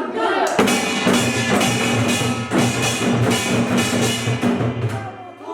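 Korean pungmul percussion ensemble of janggu and buk drums with a kkwaenggwari gong playing a driving rhythm of quick, sharp strokes. It comes in about half a second in and drops away near the end.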